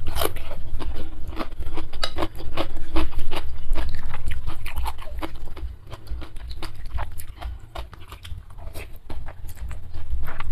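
Close-miked chewing with crisp crunching and wet mouth clicks for the first half, then quieter for a few seconds. Louder again near the end as a mouthful of instant noodles goes in.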